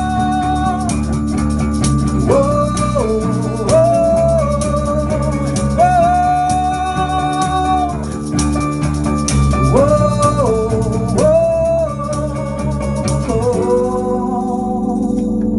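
Acoustic alternative-rock band playing the song's outro: held melody notes that slide between pitches over acoustic guitar. About two seconds before the end it settles on a final chord left ringing.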